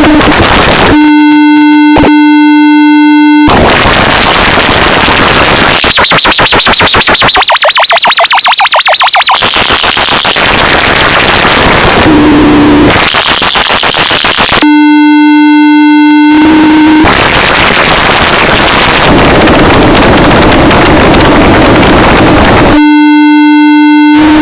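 Loud electronic noise: harsh static hiss alternating with a steady buzzing tone that returns about every eight seconds. In the middle comes a rapid stutter with a high whine.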